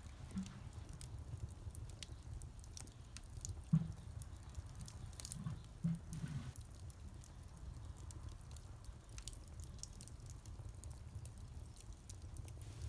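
Wood bonfire crackling, with irregular small pops and clicks, two louder ones about four and six seconds in, over a steady low rumble.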